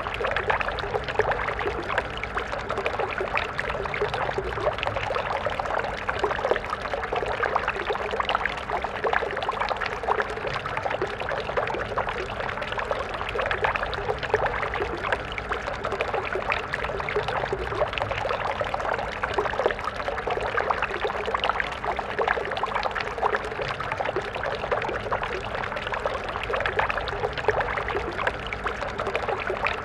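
Stream water flowing and splashing steadily, a continuous babbling rush.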